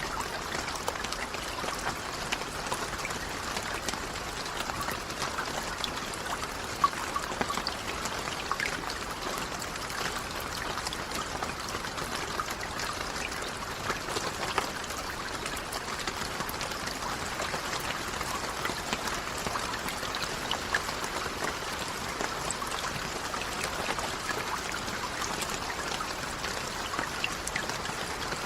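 Steady rain falling, an even hiss of water with many small, sharp drop ticks scattered through it.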